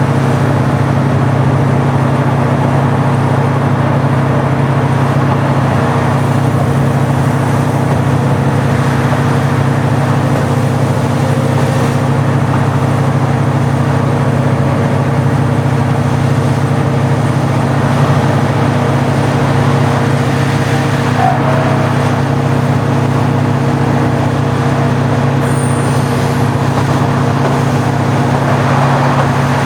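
Original-type diesel engine of a JR Shikoku KiHa 40-series railcar running steadily, a constant drone with no change in pitch.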